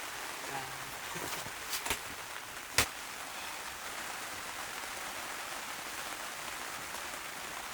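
Steady rain falling, an even hiss, with a few sharp clicks or knocks around two and three seconds in; the one near three seconds is the loudest.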